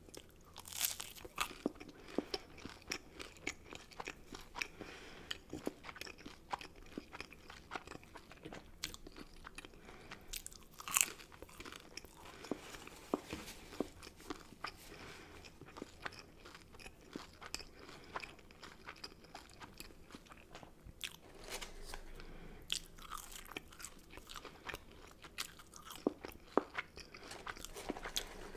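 A person chewing and biting McDonald's food: an irregular run of soft wet chews and mouth clicks, with sharper crunches now and then, the loudest about a second in, around eleven seconds in, and near the end.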